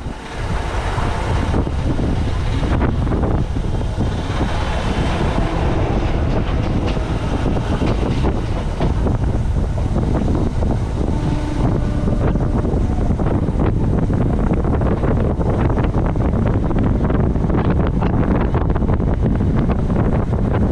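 Wind buffeting the microphone held outside a moving electric local train, over the steady rumble of the coach running on the rails. Short clatters from the wheels on the track come more often in the second half.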